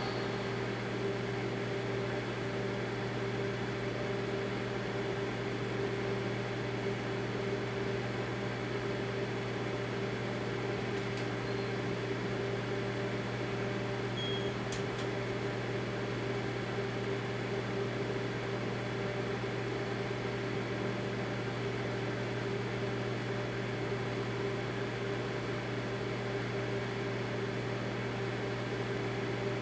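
Daewoo microwave oven running with its door shut: a steady electrical hum with fan noise. A couple of faint clicks come near the middle.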